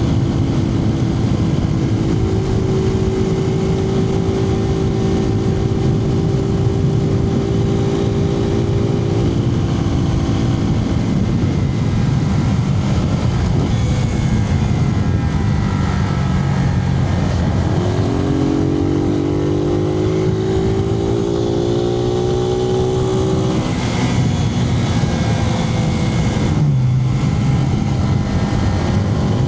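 Suzuki TU250X's single-cylinder engine running under way, heard from inside the rider's helmet over steady wind noise. The revs drop about a third of the way in, climb steadily just past halfway and break off at a gear change, then dip briefly near the end.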